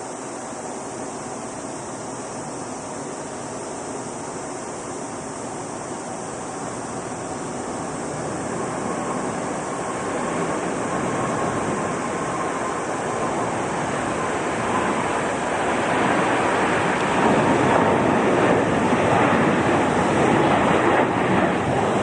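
Jet airliner engines at takeoff thrust: a broad rushing noise that grows steadily louder as the aircraft draws closer, with a faint whine coming through about halfway in.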